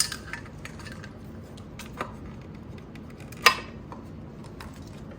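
A few light clicks and knocks of hard parts being handled, with the sharpest click about three and a half seconds in.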